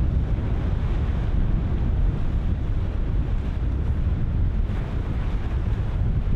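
Ocean surf breaking in a continuous wash, with strong wind buffeting the microphone in a deep, steady rumble.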